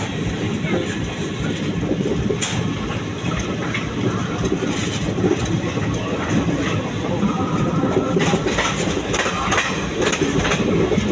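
Passenger train running along the track: a steady rumble of wheels on rails with scattered clicks and clatter.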